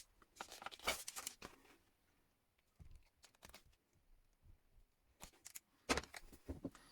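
Faint scattered clicks and rustles of wires and small electrical parts being handled while a wire is connected to an emergency stop button, with the sharpest clicks about a second in and near the end.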